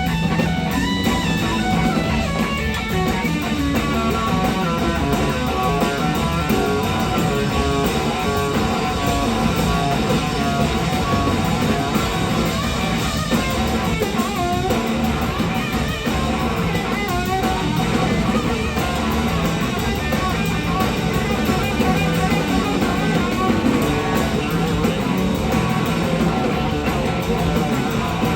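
Live rock band playing: an electric slide guitar solos, its notes gliding and wavering, over bass and drum kit.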